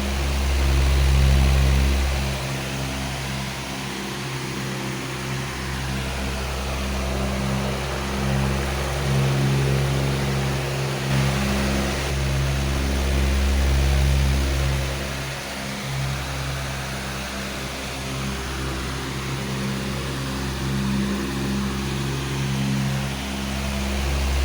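Powerful electric fan running steadily: a low motor hum under a broad rush of air, swelling and easing in loudness every several seconds.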